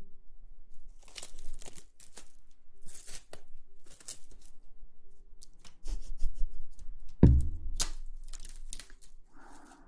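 Crinkly material rustled and crumpled close to the microphone in short bursts about a second apart. There is one heavier thump about seven seconds in.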